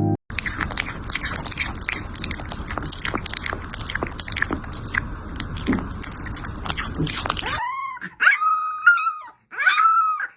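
A dog chewing noisily, with a dense run of sharp crunching clicks. Then, from about seven and a half seconds in, several short high whines that rise and fall.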